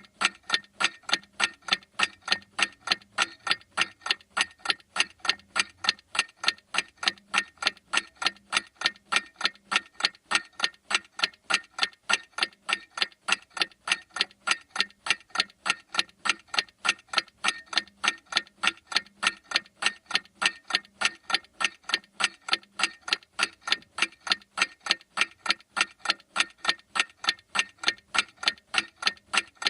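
Clock ticking steadily, about two sharp ticks a second in an even rhythm.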